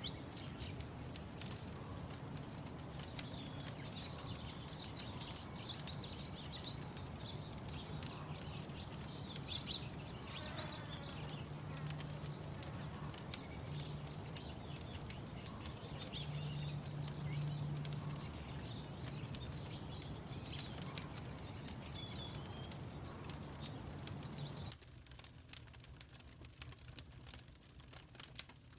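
Small birds chirping over the crackle and pops of a wood fire, with a low steady hum underneath. About four seconds before the end the birdsong and hum drop away, leaving the fire crackling alone.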